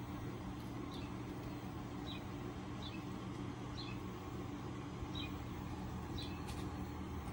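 A small bird chirping about once a second, each chirp a short high note dropping in pitch, over a steady low background hum.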